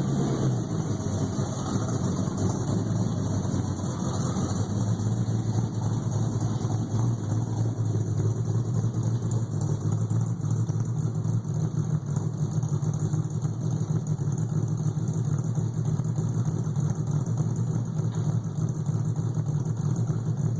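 347 V8 in a Ford Ranger idling steadily on a cold start, after sitting for two days.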